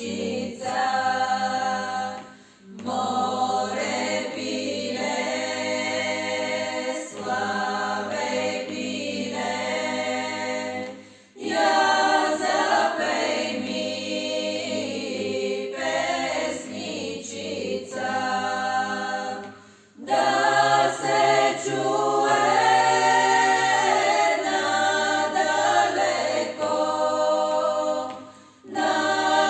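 Voices singing a song without instruments, in long phrases of about eight to nine seconds separated by short breaks for breath.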